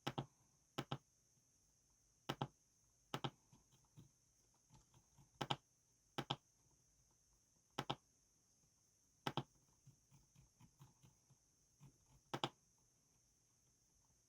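Single keys struck one at a time on a LANGTU LT-84 sandwich-mount mechanical keyboard: about nine sharper keystrokes, each a quick double click, spread unevenly with fainter key taps between them.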